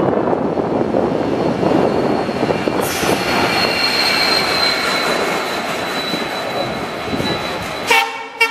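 Freight train of NMG wagons rolling past, with a steady rumble of wheels on rail. About three seconds in, a high, steady wheel squeal sets in. The sound cuts off abruptly near the end.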